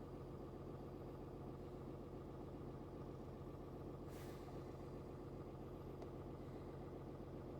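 Cummins 6.7 turbo-diesel inline-six idling steadily and faintly at a raised idle of about 900 RPM, which the mechanic suspects is the engine running a DPF regen. A short hiss about four seconds in.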